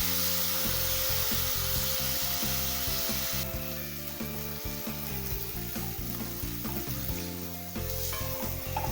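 Sweetcorn pieces frying in hot oil with spices in a kadai, a steady sizzle. The high hiss drops suddenly and noticeably about three and a half seconds in, leaving a quieter sizzle.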